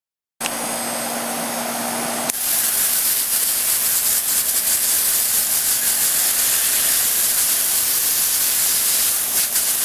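Water from a garden hose spraying into an air conditioner's condenser coil fins, a steady hiss that starts suddenly and gets louder about two seconds in. A low steady hum sits underneath, clearest at first.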